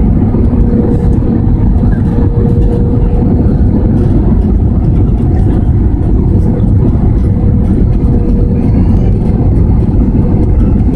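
Loud, steady engine and airflow noise inside the cabin of an Airbus A320, with a faint steady hum.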